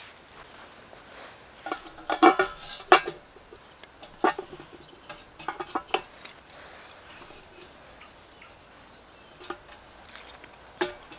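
Irregular knocks and clinks, clustered two to three seconds in and scattered after, with a few faint bird chirps.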